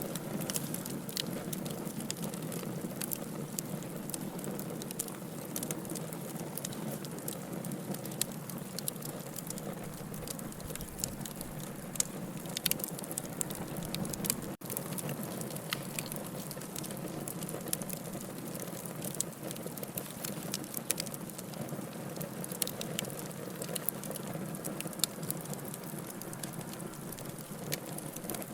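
Wood fire in a fireplace burning steadily, with a continuous soft hiss and many irregular sharp crackles and pops. The sound cuts out for an instant about halfway through.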